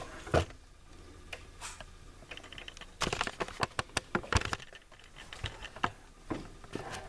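Irregular small clicks and light rattles of objects being handled, thickest in a quick run about halfway through.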